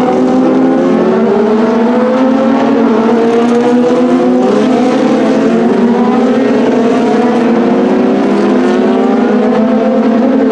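Several racing car engines running at high revs together, their pitch repeatedly climbing and dropping as they shift up through the gears.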